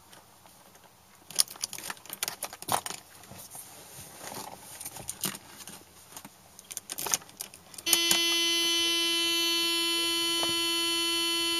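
Keys jangling and clicking in a 1987 Mercedes-Benz 300D, then about eight seconds in a steady electric warning buzzer in the car comes on and holds at one pitch.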